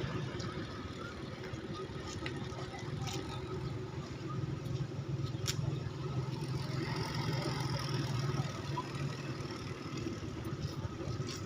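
A steady low engine hum that swells for a few seconds midway, with a few sharp clicks over it.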